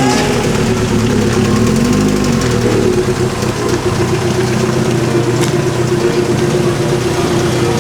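Car engine idling with a rapid, even low beat, rising briefly in pitch about two seconds in as if lightly revved.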